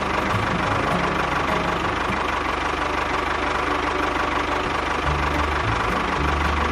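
An engine running steadily with a fast, even knocking rhythm. Its low note shifts about five seconds in.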